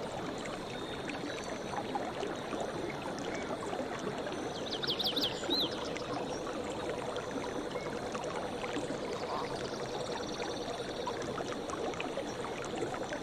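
Running water of a stream, a steady rushing. A short run of quick high chirps comes about five seconds in.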